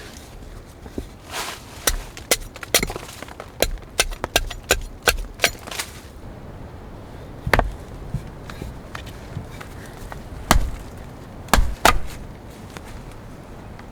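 Wood being chopped: a quick run of sharp strikes, about three a second, then a few single heavier strikes spaced a second or more apart.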